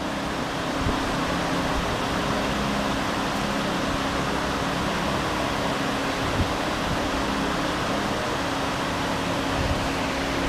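A machine running steadily: an even hum with a constant low drone that holds the same pitch throughout, with no change in speed.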